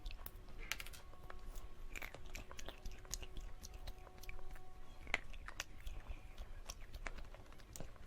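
Close-miked chewing of soft dessert cake, with scattered small wet mouth clicks and smacks. A faint steady hum sits underneath for the first few seconds.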